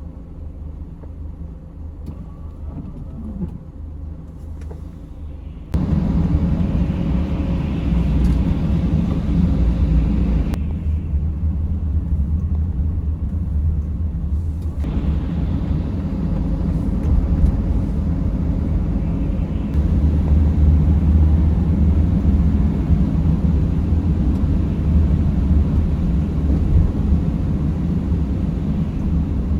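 A vehicle driving on snowy roads, heard from the driver's seat: a steady low engine and road rumble with tyre hiss over it. The sound jumps abruptly louder and hissier about six seconds in, turns duller for a few seconds in the middle, then goes back to hissing.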